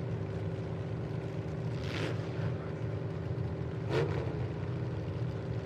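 Demolition derby truck engines idling steadily. Two brief hissy bursts come about two and four seconds in.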